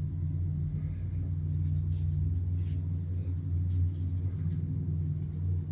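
A steady low hum with a few held tones, one of which drops out midway and comes back, under faint light clicks.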